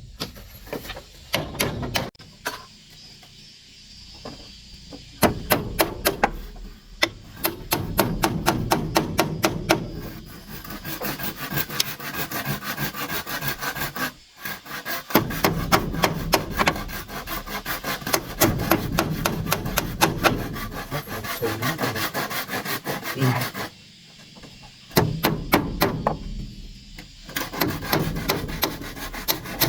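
Wood being worked by hand with quick, repeated rasping strokes, interrupted by a few short pauses.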